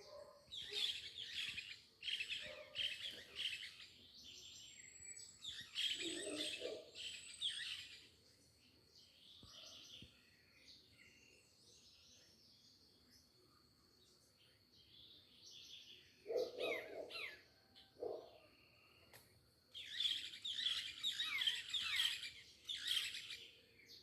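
Songbirds chirping in several quick bursts of high, rapid notes, with a faint, thin, steady high tone running underneath.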